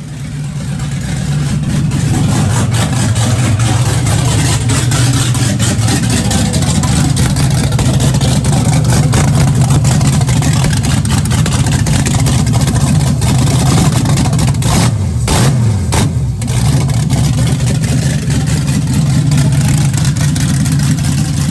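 A 5.3-litre LS V8 running on its first start-up, steady and loud with no exhaust fitted past the headers. About 15 seconds in its pitch dips briefly and comes back, with two sharp clicks.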